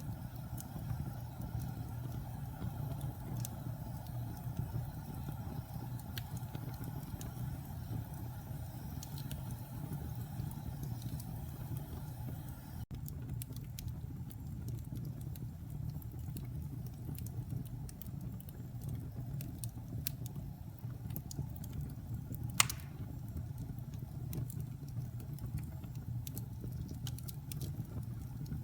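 Wood fire crackling in a fireplace: a steady low rumble of the flames with scattered small crackles, and one sharp pop about three-quarters of the way through.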